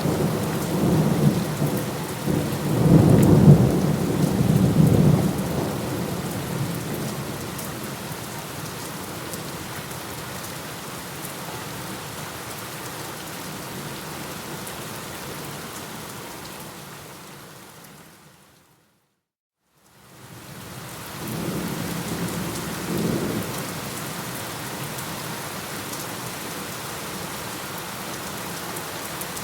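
Steady heavy rain with rolling thunder: a long low rumble swells and fades over the first several seconds, then a second, shorter rumble comes a little past the middle. Shortly before that second rumble the sound fades out to silence for about two seconds and fades back in.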